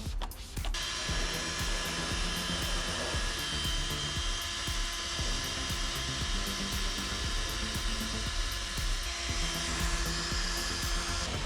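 Power drill spinning a scrub brush, its motor whining steadily, starting under a second in, over background music.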